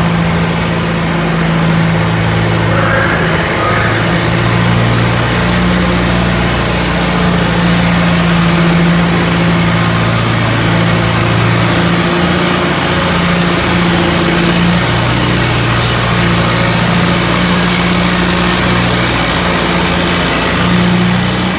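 Antique farm tractor engine pulling a sled, running loud and steady with its pitch held nearly level and only small dips.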